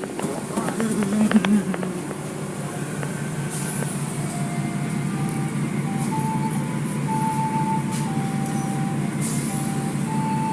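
Automatic car wash machinery running with a steady mechanical rumble and hum, with a few clicks in the first two seconds. From about four seconds in, a simple tune of held notes plays over it.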